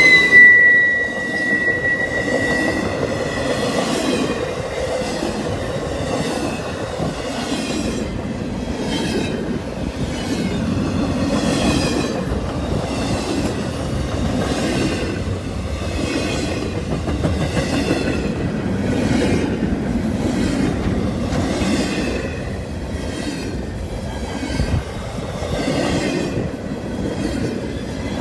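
Freight train cars rolling past at speed, wheels clattering over the rail joints in a steady, repeating rhythm. A high ringing tone, typical of wheel squeal, dies away in the first two seconds.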